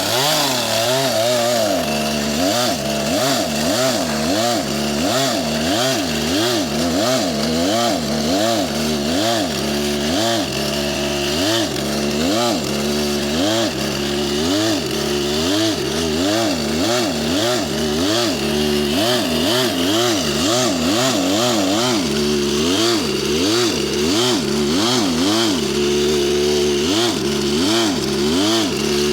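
Two-stroke chainsaw running hard, its engine speed surging up and down about once a second instead of holding steady. The users find the surging puzzling and guess it comes from the cool morning air.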